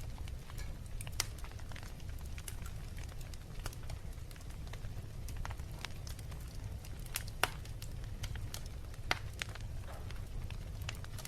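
Wood fire burning in a fireplace: a steady low rumble with scattered sharp crackles and pops, a few louder snaps among them.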